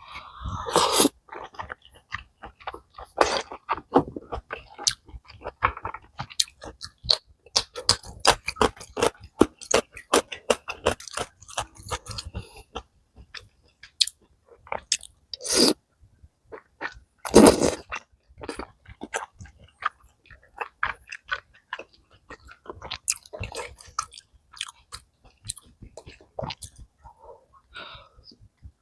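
A person chewing and biting mouthfuls of malatang, a dense run of short wet clicks and crunches. Several louder, longer eating noises come through near the start and twice around the middle.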